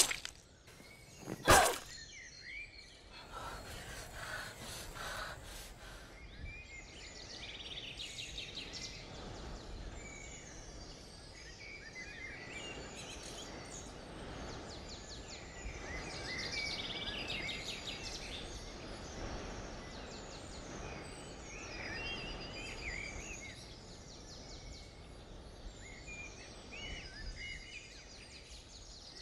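Several small birds chirping and singing over a steady outdoor background hiss. A sharp knock sounds about a second and a half in.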